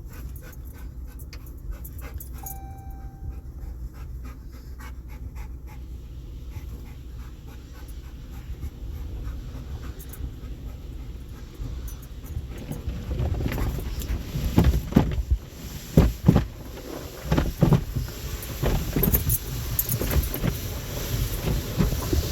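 A dog panting steadily inside a car. From about 13 seconds in, irregular louder surges of car wash equipment rise up: water spray and washing gear hitting the car's body.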